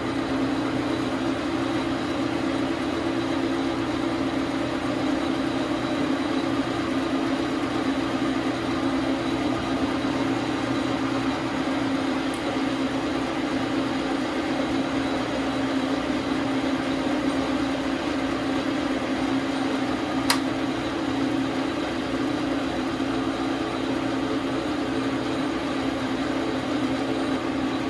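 Dar Sin 12 x 37 manual lathe running steadily with an even motor hum, with one sharp click about twenty seconds in.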